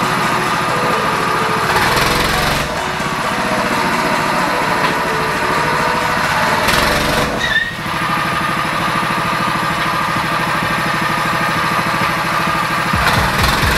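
Homemade buggy's single-cylinder Lifan 168F2-RD four-stroke engine running steadily, with two louder, noisier surges about two seconds in and about seven seconds in.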